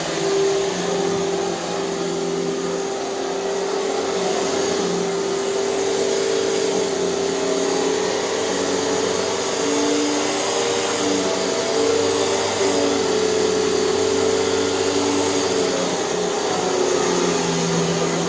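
Hoover canister vacuum cleaner with a power nozzle running steadily on carpet, its motor hum shifting slightly in pitch.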